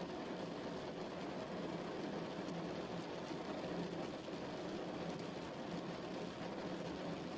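Steady rain falling, an even rushing patter with no breaks.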